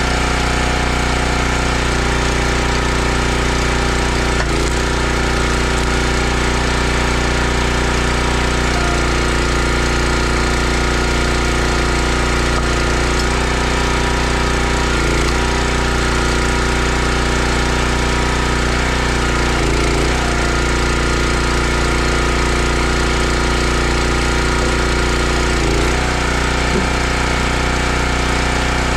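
Gas engine of a 32-ton Country Line log splitter running steadily, its note changing briefly every few seconds.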